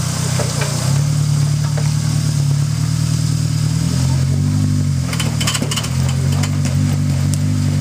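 Suzuki Samurai's engine running at low revs as it crawls over rock, its pitch dipping and then rising a little about halfway through. A short run of sharp clicks and knocks comes about five seconds in.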